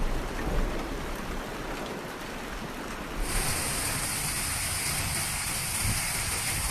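Heavy rain falling as a steady hiss, with an abrupt change about three seconds in to a louder, hissier downpour.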